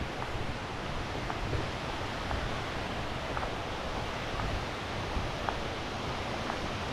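Steady rushing of a mountain creek and waterfall cascades, an even hiss of falling water that keeps on without change.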